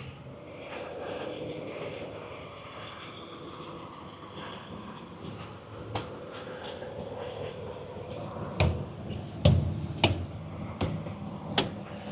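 Several sharp knocks against a semi truck's tires as they are checked by hand during a walkaround, most of them in the last four seconds, over a steady low hum.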